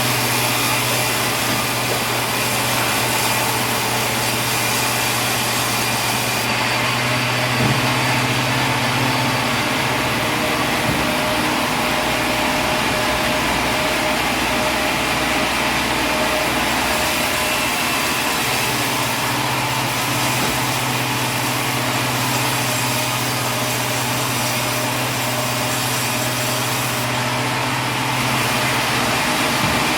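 A motor running steadily, with a low hum under loud, even noise.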